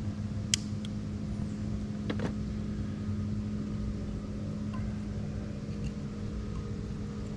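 Steady low drone of a distant motorboat engine, with two sharp snaps, about half a second and about two seconds in.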